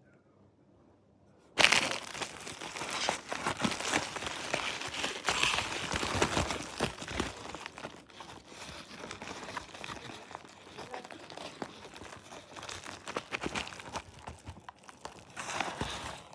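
Kebab wrapping being crinkled and unwrapped by hand, starting abruptly about a second and a half in, full of sharp crackles throughout.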